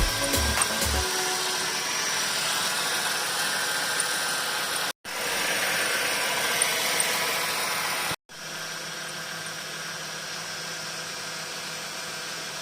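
Holden VT Commodore engine idling steadily, in three short clips cut together; the last clip is quieter.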